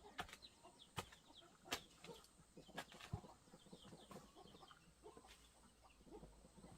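Faint chickens clucking and peeping, with a few sharp knocks or taps in the first half.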